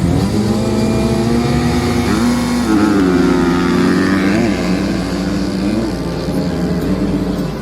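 Two-stroke motocross bike engine revving hard. The pitch climbs sharply at the start, then holds high with short dips and rises as the throttle is worked.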